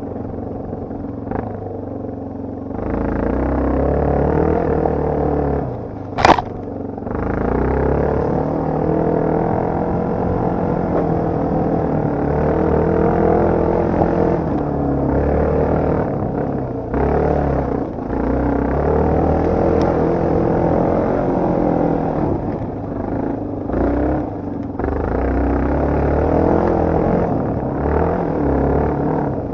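Motocross/enduro dirt bike engine being ridden, revving up and down with the throttle. There is one sharp knock about six seconds in.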